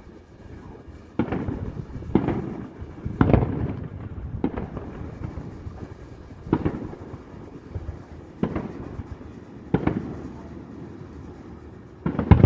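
Fireworks shells bursting: about eight sharp booms at uneven intervals, each trailing off in a low rumbling echo.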